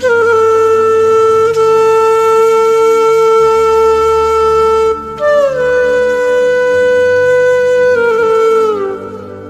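Background music: a flute-like wind instrument plays long held notes, sliding up to a new pitch about five seconds in and stepping down near the end, over a low sustained drone.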